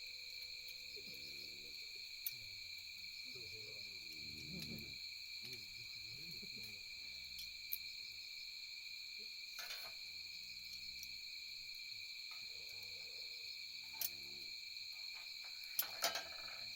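Campfire crackling, with a handful of sharp pops, the loudest two near the end. Under it a steady chorus of night insects trills at two high pitches.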